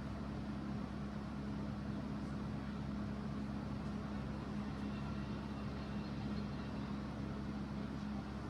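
Steady machine hum: a constant low tone with overtones over an even rushing noise, unchanging throughout.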